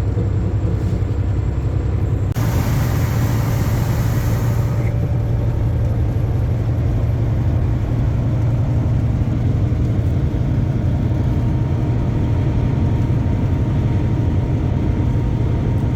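Semi-truck heard from inside the cab while cruising on the highway: a steady low engine and road drone. A burst of hiss begins suddenly about two and a half seconds in and cuts off after about two seconds.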